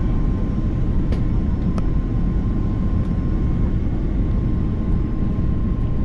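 Cabin noise inside an Airbus A330-300 airliner: a steady low rumble with a thin continuous whine in it, and a few faint clicks.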